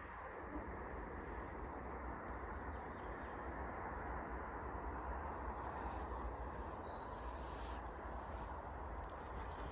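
Forest ambience: a steady even rush with a few faint bird calls.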